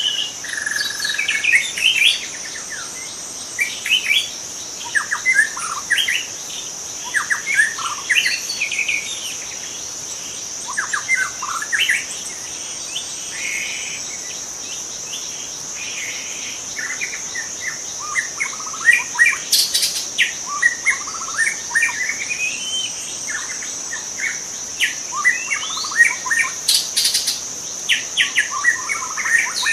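Young white-rumped shama singing in short, varied, whistled phrases that slide up and down in pitch, with a lull in the middle before the song picks up again. A steady, high insect drone runs underneath.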